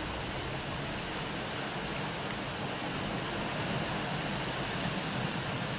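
Rain falling steadily in a thunderstorm, an even hiss with no breaks.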